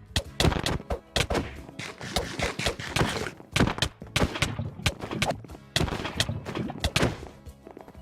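Rapid, irregular sharp knocks and thuds, several a second, some much louder than others.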